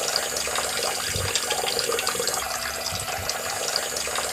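Water spraying steadily from a small toy shower head and splashing onto a plastic figure and its base.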